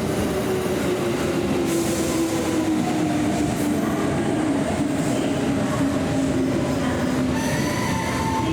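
Kintetsu electric commuter train running along the platform, a steady rumble with a motor tone slowly falling in pitch as it slows. Higher squealing tones join near the end.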